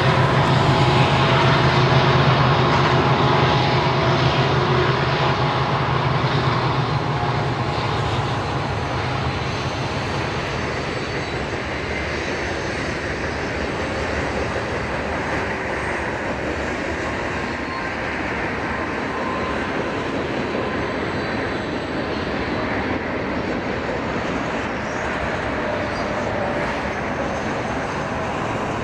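Union Pacific diesel locomotives passing, their low engine drone fading over the first several seconds, then the steady rumble of the freight cars rolling on the rails.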